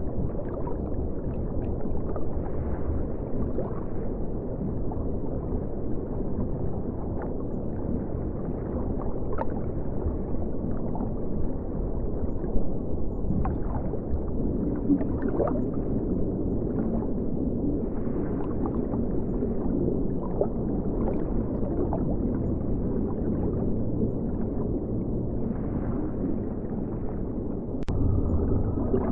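River water flowing and gurgling, muffled, with scattered small ticks, as heard by a camera submerged in the river. A louder low swell of water comes near the end.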